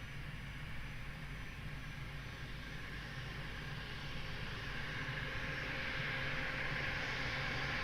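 Jet engines of a Boeing 777-300ER on approach, a distant steady hiss with a low hum beneath that grows slowly louder as the airliner nears.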